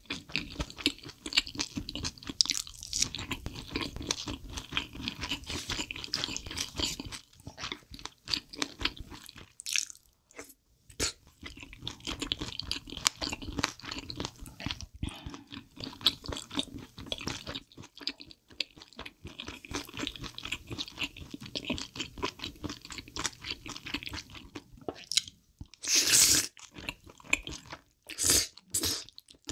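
Close-miked eating of spicy chicken feet and glass noodles: steady chewing with rapid crunchy, wet mouth sounds, and near the end a loud slurp followed by a few shorter ones.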